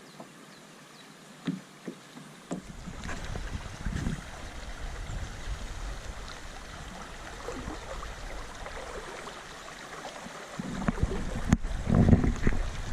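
Water sloshing and lapping around a kayak, with a couple of sharp knocks on the hull in the first few seconds. Wind starts buffeting the microphone about two and a half seconds in, and there is a louder burst of splashing and knocking near the end.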